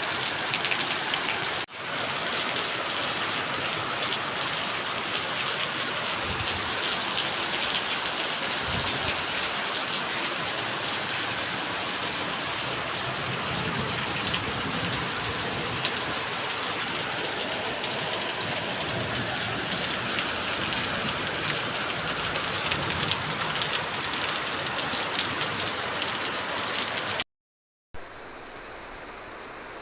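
Steady rain falling, a dense patter of drops on a hard surface. It cuts out for a split second near the end and comes back quieter.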